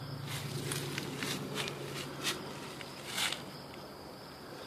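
Faint, steady outdoor insect chirring, with about eight brief rustles or scuffs over the first three seconds.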